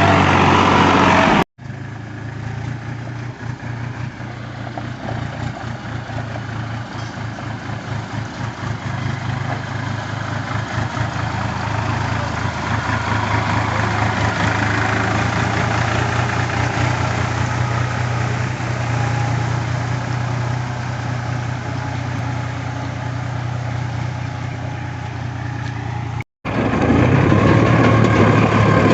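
New Holland 4710 tractor's diesel engine running under load, with a low, even firing beat. Two abrupt cuts, about one and a half seconds in and near the end, break the sound into sections; the louder sections come before the first cut and after the second.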